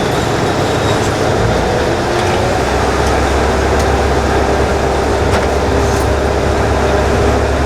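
KiHa 20 diesel railcar under way, its DMH17-type diesel engine running with a steady low hum over the noise of wheels on rails. The hum settles into a fuller, steadier note about two seconds in, with a few faint clicks later on.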